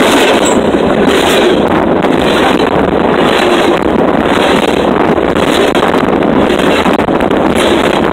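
Freight train cars rolling directly over the microphone: loud, steady noise of steel wheels on the rails with a low rumble underneath, mixed with air rushing over the microphone.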